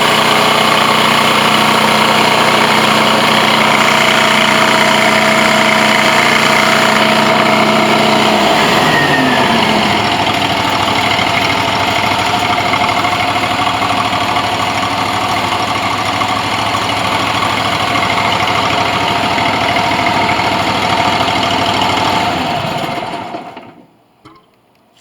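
Blue Baron Compact 45 truck mount extractor running loud and steady, then its engine speed falls about a third of the way in and it runs on lower before shutting down near the end, the sound dying away within about a second.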